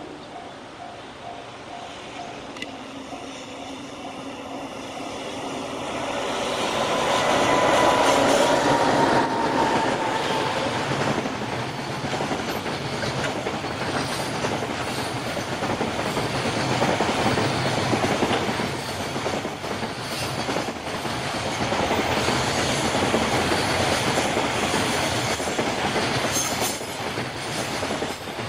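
Container freight train of the Toyota Long Pass Express, hauled by an EF210 electric locomotive, passing close by. The wagons rumble steadily with a running clickety-clack of wheels over the rail joints, and a short high wheel squeal comes about seven seconds in. In the first few seconds a level-crossing bell dings before the train noise swells.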